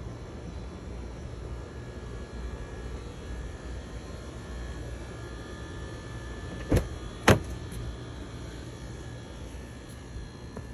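Toyota Land Cruiser LC300's twin-turbo V6 idling with a steady low hum. Two sharp clicks come about half a second apart past the middle, the second the louder.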